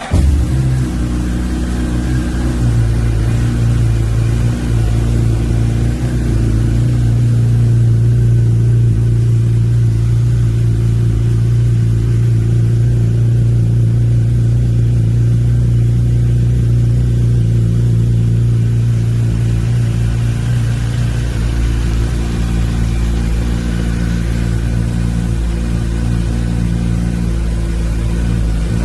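Suzuki Hayabusa's inline-four engine, breathing through a Yoshimura aftermarket muffler, catches right at the start and then idles steadily and loudly at an even pitch.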